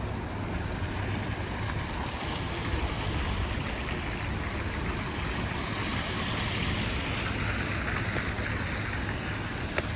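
Steady city street noise: a low traffic rumble with a watery hiss of tyres on slushy road that swells through the middle and late part, and one sharp click near the end.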